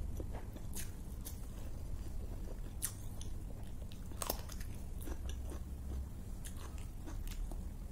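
Close-miked chewing with scattered small mouth clicks, and a crisp bite into a green chilli about four seconds in, over a low steady hum.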